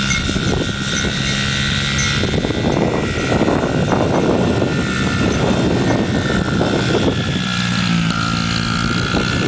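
Honda CRF50 dirt bike's small single-cylinder four-stroke engine running, a steady hum that turns rougher and noisier for a few seconds in the middle.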